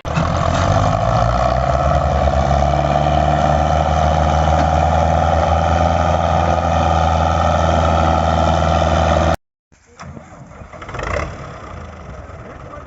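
Belarus 510 tractor's diesel engine running loudly and steadily under load. About nine seconds in it breaks off sharply, and a quieter engine sound follows.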